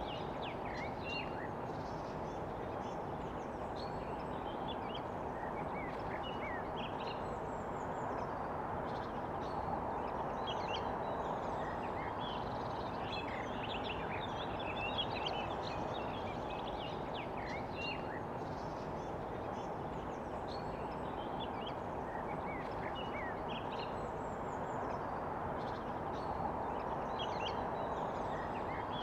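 Many short bird chirps and calls scattered throughout, over a steady background rush.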